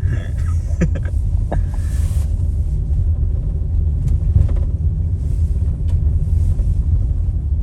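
A steady low rumble, with a few faint clicks in the first two seconds.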